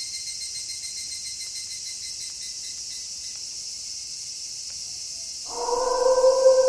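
Steady chirring of crickets. About five and a half seconds in, a wolf begins a long howl.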